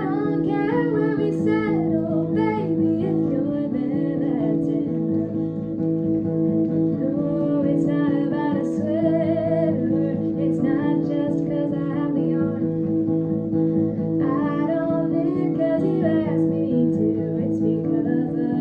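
Guitar strummed and plucked steadily under a solo voice singing several sung phrases: a live, unedited performance of an original song.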